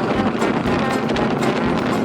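1929 Buick Speedster race car's engine running steadily at speed, with wind buffeting the microphone.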